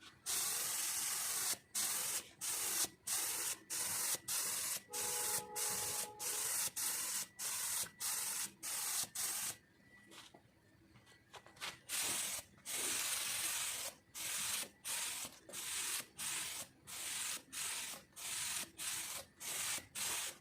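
Compressed-air paint spray gun hissing in many short bursts, roughly one or two a second, as the trigger is pulled and released over and over. The first spray is longer, and there is a pause of about two seconds near the middle.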